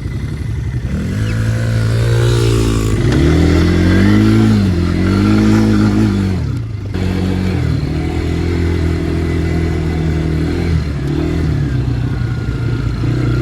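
Dirt bike engine revving up and down. About seven seconds in the throttle briefly drops off, and the engine then holds a steadier pitch.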